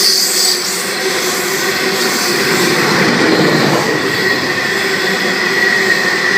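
Freight train rolling past at close range, a steady, loud rail noise of wheels on track, with a thin high-pitched tone held over it that grows toward the end.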